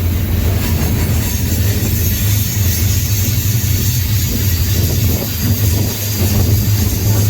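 Freight train rolling along, heard from aboard one of its cars: a steady, loud low rumble with a rushing noise over it.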